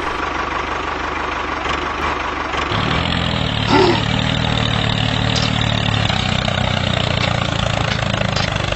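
Tractor engine idling steadily; about three seconds in, a deeper, steady hum comes in under it.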